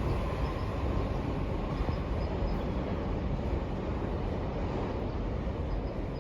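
Odakyu limited express electric train running on the line, a steady rumble of wheels on rail.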